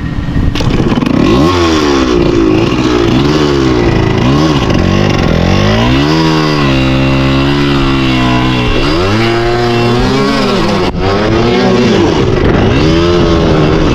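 Dirt bike engine revving hard, its pitch rising and falling again and again as the throttle is worked, held at high revs for a couple of seconds mid-way.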